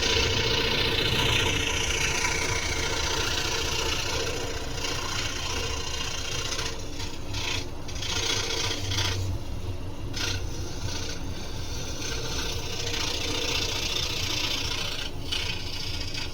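Scroll saw running steadily, its reciprocating blade rasping through wood, with a few brief lulls in the cutting noise.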